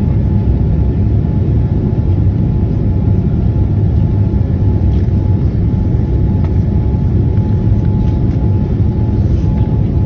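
Boeing 787-9 airliner cabin noise during takeoff and climb. The engines and airflow make a loud, steady low rumble, with a faint steady whine above it.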